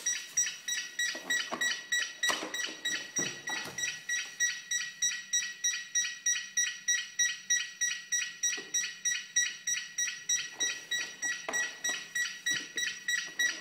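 Rapid, steady electronic beeping from the Aircraft Pilot Lux vacuum cleaner with its faulty docking station, about three short high beeps a second. A few soft knocks come in between.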